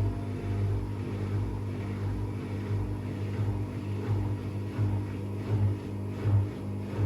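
AEG Lavamat washing machine running: a steady motor hum with a rhythmic swell about every three quarters of a second in the second half.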